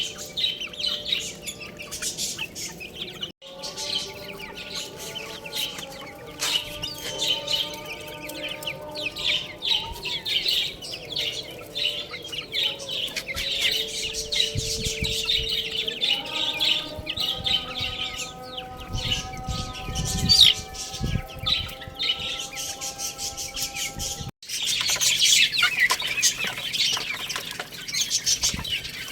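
Baby chicks peeping continuously: a dense chorus of rapid, high-pitched chirps, broken by two abrupt cuts.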